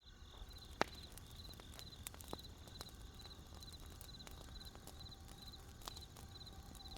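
Wood campfire crackling with scattered sharp pops, the loudest about a second in, over a cricket chirping steadily about twice a second, each chirp a quick triple pulse.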